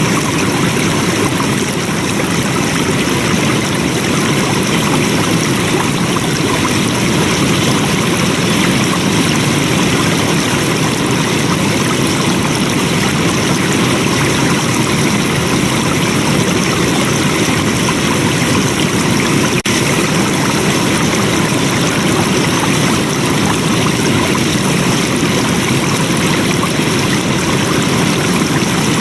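Flowing stream water, a steady, even rush with no change in level, broken only by a momentary dip about two-thirds of the way through.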